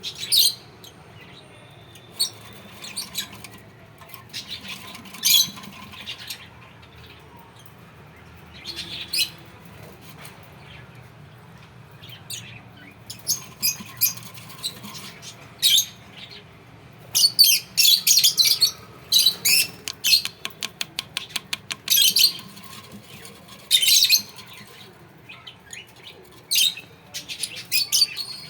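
African lovebird chicks calling in short, high-pitched chirps every second or two, crowding together into a fast run of rapid chirps about two-thirds of the way through.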